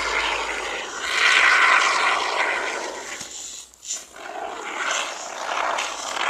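Can of expanding spray foam hissing as foam is dispensed into a gap, in spurts with a short break about halfway through.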